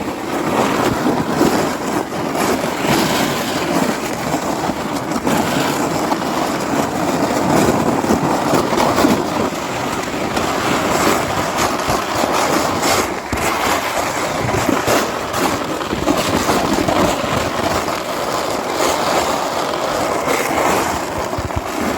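Sled sliding fast down a hill over crusty, sleet-packed snow: a continuous rough scraping noise.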